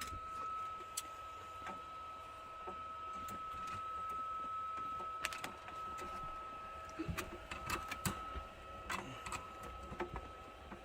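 Scattered light clicks and taps from hands working on the truck heater's wiring, bunching up about seven seconds in, over a steady high-pitched whine.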